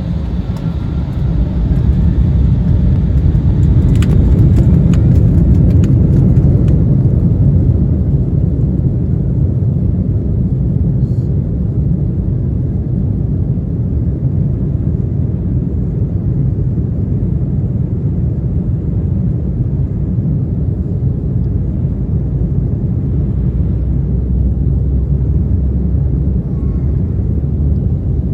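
Embraer 175's CF34 turbofan engines heard from inside the cabin during takeoff: a faint rising whine near the start as thrust builds, then a loud, steady rumble. A quick series of clicks or knocks comes about four to six seconds in.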